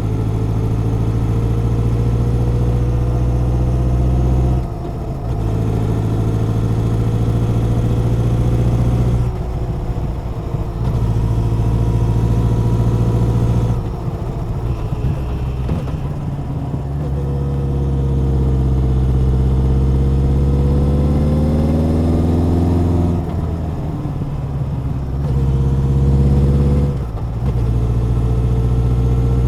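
Honda CB1100's air-cooled inline-four engine and exhaust running under way. The note climbs slowly in pitch and dips briefly about five times, the longest rise and fall coming about two-thirds of the way in.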